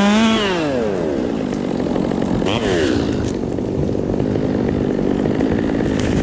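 Two-stroke chainsaw running at high revs, then dropping to idle about half a second in as the throttle is released. It gives one short rev about two and a half seconds in and then idles steadily.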